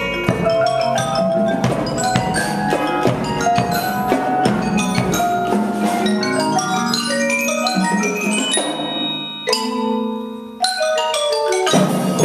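An ensemble playing a fugue as many overlapping lines of struck, pitched notes. It thins to a few held notes and a short lull near the end, then closes on a loud final chord.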